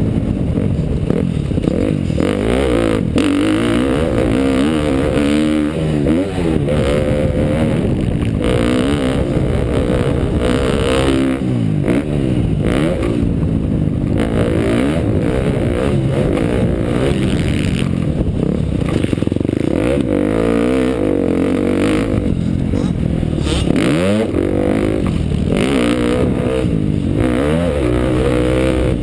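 KTM dirt bike engine revving up and down over and over as it is ridden around a motocross track, the pitch climbing and dropping with throttle and gear changes.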